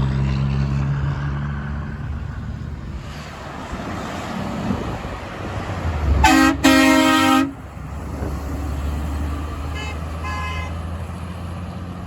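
Truck horn blown twice, a short blast and then a longer one about six seconds in, over the engine noise of passing traffic. Fainter short horn toots follow around ten seconds.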